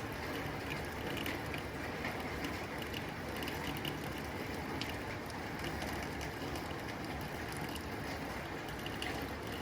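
Rain falling on a tin roof: a steady rush with many small, irregular ticks of drops striking the metal.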